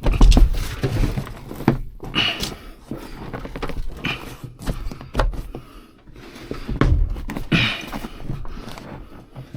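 Irregular knocks and heavy thumps of an interior trim piece being pushed and worked into place over the truck cab's door sill, with the loudest thump right at the start and others about 5 and 7 seconds in.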